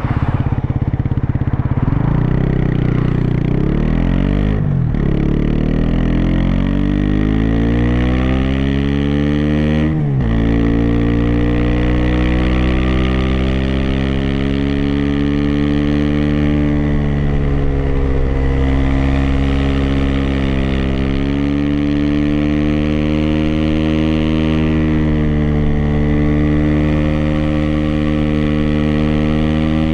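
Aprilia SX 125's single-cylinder four-stroke engine through an Arrow racing header and Thunder slip-on silencer with dB-killer, accelerating up through the gears. The revs drop sharply at two quick shifts about five and ten seconds in, then the engine runs at fairly steady revs that rise and fall a little with the throttle.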